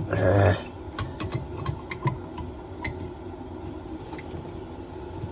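A short, loud metallic rattle at the start, followed by scattered small clicks and taps of metal tool parts and fittings being handled, over a steady low hum.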